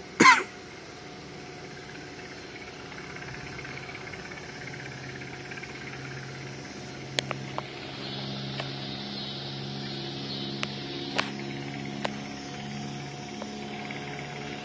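Stearman PT-17 biplane's radial engine droning steadily at a distance as the plane climbs away after takeoff, getting a little louder about halfway through. A short loud sound right at the start and a few sharp clicks near the middle.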